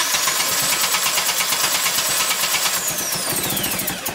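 Engine running with fast, even firing pulses, and a high whine that falls away in pitch near the end. Its ignition timing is being set by turning the distributor.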